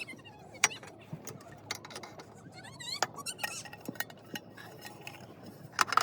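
Scattered light clinks and knocks of small hard objects being handled, with a brief wavering squeak about three seconds in.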